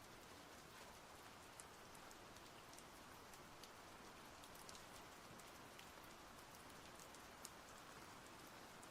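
Light rain falling: a faint, steady hiss with scattered ticks of individual drops.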